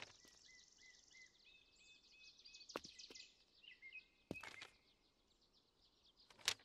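Faint ambience of bird chirps, short repeated high notes, over near silence, with a few sharp clicks.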